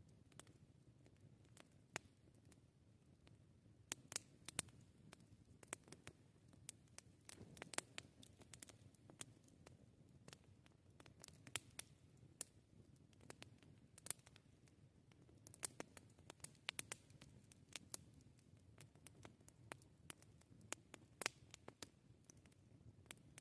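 Campfire of burning wood crackling: irregular sharp pops and snaps, some loud, at times several a second, over a faint low rumble.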